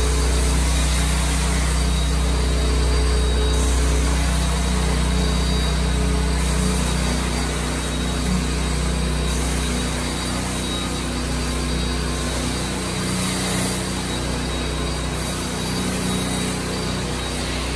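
Carpet-cleaning machine running steadily with a low hum, and a high hiss that cuts in and out every few seconds.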